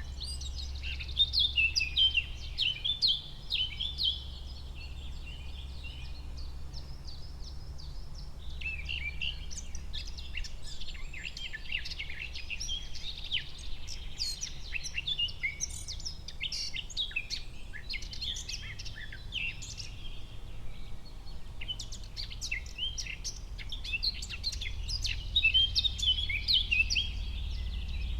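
Forest ambience: several songbirds chirping and trilling in overlapping bursts, over a steady low rumble.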